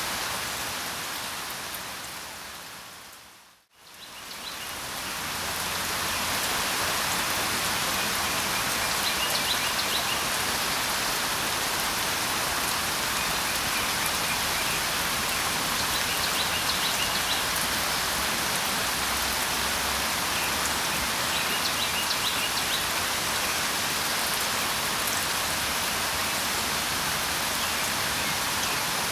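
Steady rain, which fades out almost to silence about three and a half seconds in and comes back up over the next couple of seconds. Faint, high, short bird chirps sound now and then over the rain.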